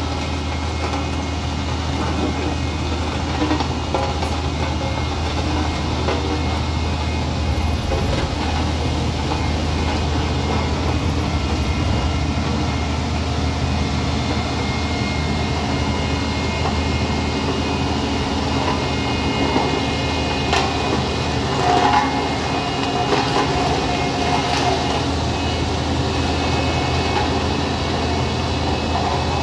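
Heavy vehicle engine running steadily with a constant low hum, with a few brief louder sounds about two-thirds of the way through.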